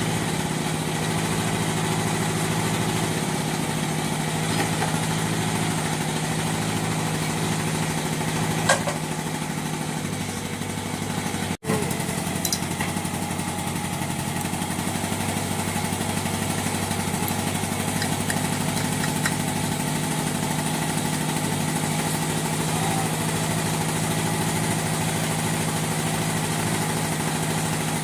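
Outboard motor idling steadily during a gearbox repair test run, with a single sharp click about nine seconds in and a momentary break in the sound near twelve seconds.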